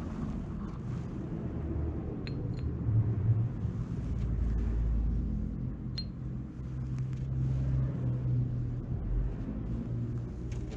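Honda Lead 100 scooter's two-stroke engine running with a low rumble that swells and eases, and a few sharp metallic clicks, the owner suspecting a worn crankshaft bearing.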